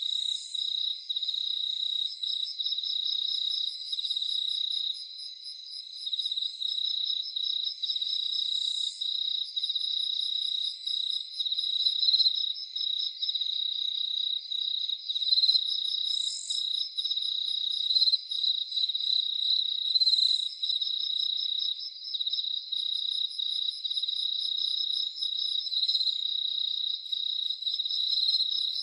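Crickets chirping in a continuous high-pitched chorus, a steady pulsing trill with a few short, higher insect calls over it now and then.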